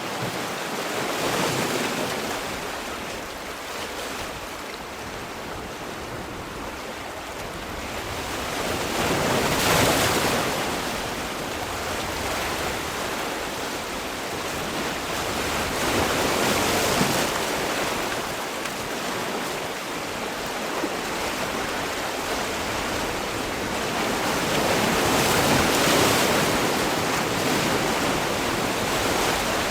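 Sea waves washing ashore, in slow surges that swell and fall back every several seconds, with the loudest breakers about ten seconds in and again near the end.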